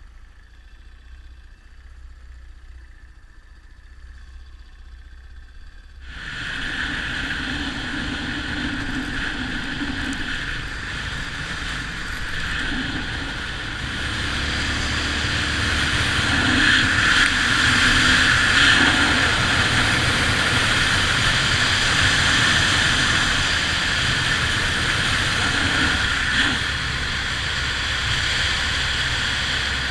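Yamaha XT 600 single-cylinder motorcycle engine running steadily under way, starting suddenly about six seconds in after a faint low rumble.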